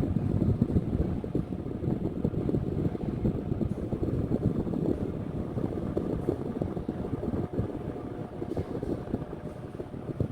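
Dômina Neo Oscilante 50 pedestal fan running, its airflow gusting irregularly against the microphone. The fan has a weak run capacitor, so even its top speed blows only about as hard as its lowest setting.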